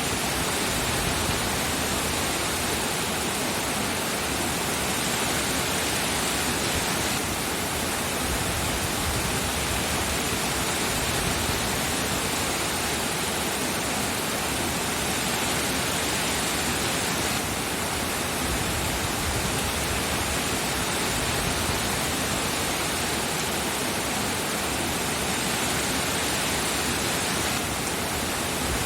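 Steady, even rain noise with no separate drops or thunder standing out.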